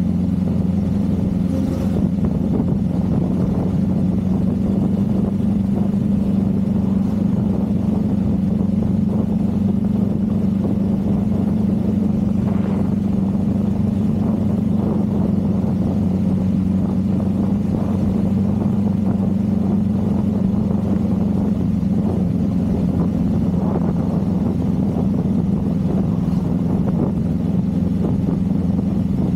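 Motorcycle engine running at a steady cruise, its note holding at a nearly unchanging pitch.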